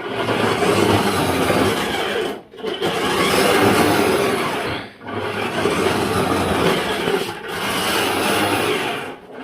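Ride-on toy car running and rolling with a grinding whirr, in runs of about two and a half seconds with short breaks between them.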